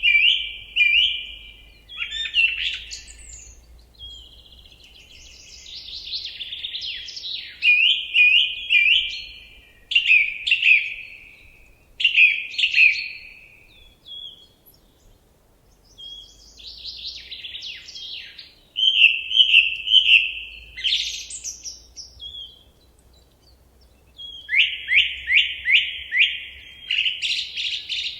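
A songbird singing loud, varied phrases separated by short pauses, including runs of quickly repeated notes, about four or five a second, near the end.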